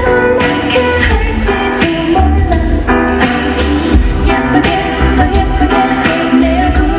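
Upbeat K-pop dance song with female vocals and a steady, heavy drum beat, played loud through a concert sound system.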